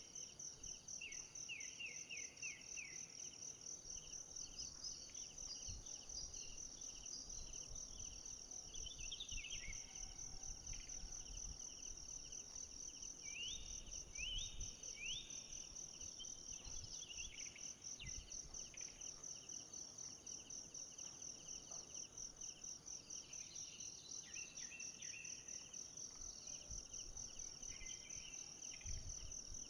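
Forest insects trilling in a steady, high, rapidly pulsing chorus, with short sweeping chirps scattered through it.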